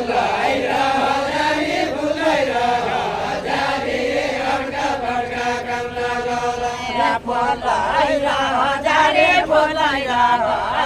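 A group of voices singing a Deuda folk song together, a slow chanted melody with wavering, drawn-out notes and no instruments.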